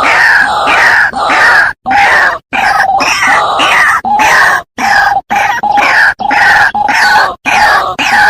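White-breasted waterhen (ruak-ruak) calls played as a bird-lure recording: a loud, dense run of rapidly repeated calls that overlap like several birds. The run is broken by several abrupt split-second dropouts where the looped recording is spliced.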